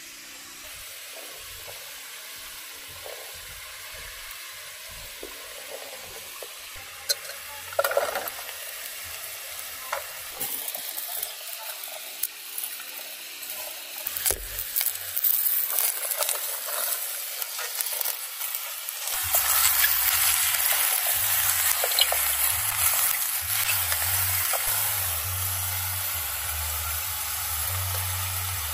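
Food frying and sizzling in a pan while it is stirred, with occasional taps and clinks of a utensil; the sizzle becomes much louder about two-thirds of the way in.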